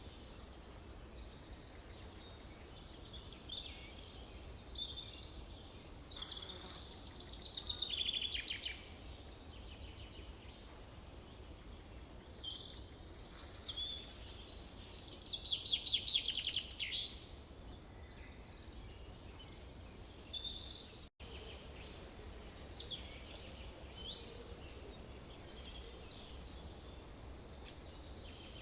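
Several songbirds singing and calling in a forest over a low steady rumble, with the loudest songs, fast trills of rapidly repeated notes, about 8 and 16 seconds in. The sound cuts out for an instant about 21 seconds in.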